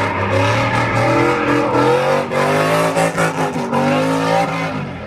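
Car engine revving hard and unevenly while the car does donuts, its pitch climbing and falling repeatedly, with a hiss of spinning tyres over it.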